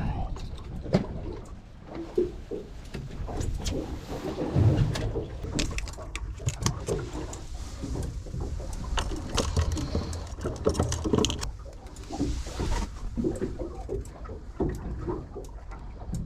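Small fishing boat on the water: a steady low rumble with irregular knocks and splashes.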